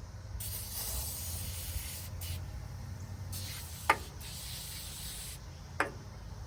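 Aerosol can of foaming engine degreaser spraying onto a diesel engine in two long hissing bursts with a pause between, and two sharp clicks, one about four seconds in and one near the end.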